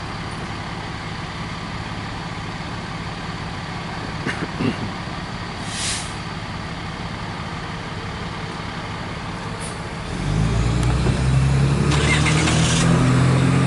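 Steady low hum of vehicle engines, with a short hiss about six seconds in. About ten seconds in a much louder, deep engine comes close and keeps running, with more hissing shortly after.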